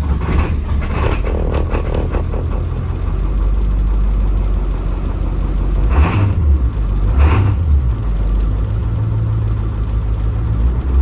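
International T444E 7.3-litre V8 turbodiesel of a school bus running at idle just after a cold start, with the block heater having been plugged in. Short louder bursts come about six and seven seconds in, and the engine gets louder near the end.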